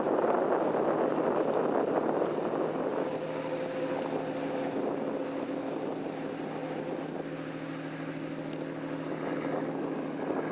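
Yamaha DY-45G boat's engine running with a steady hum under wind and water noise; about three seconds in the rushing noise eases and the engine hum stands out more clearly.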